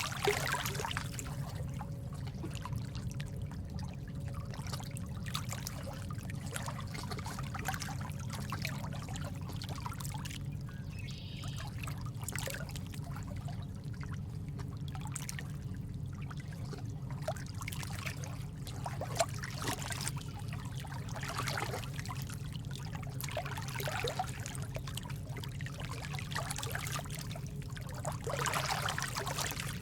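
Water trickling and splashing steadily, like a small stream, with irregular little splashes over a steady low rush. It comes in just at the start after a moment of silence.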